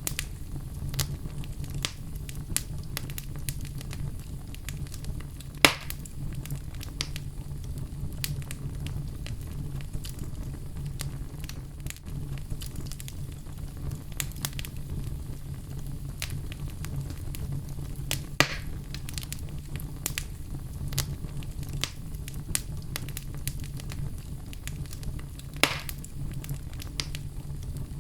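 Fire in a fireplace crackling steadily with many small ticks and three louder pops, over a low steady rumble.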